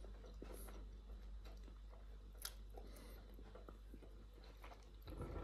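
Faint chewing as a person tastes a piece of tomato spread with dill-stem pesto, with a few soft mouth and handling clicks.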